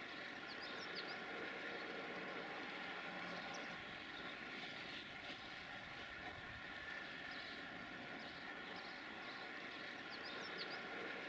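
Distant freight train hauled by LE5100kW (060-EA) electric locomotives rolling through, heard as a faint, steady rumble and hum. A few short, high chirps of small birds come about a second in and again near the end.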